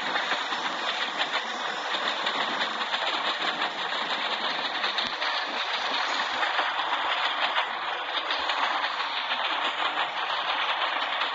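Indian passenger train running on the rails: a steady, dense rush of wheel and rail noise.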